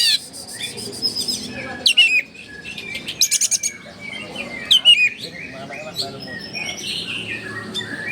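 Oriental magpie-robin (kacer) singing a loud, varied song in full voice. It gives sharp downward-slurred whistles every couple of seconds, with a quick rattle of high clicks about three seconds in.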